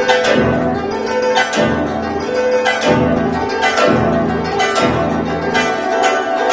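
Guzheng (Chinese zither) playing a polyphonic piece: quick runs of plucked notes over deep bass notes struck about once a second.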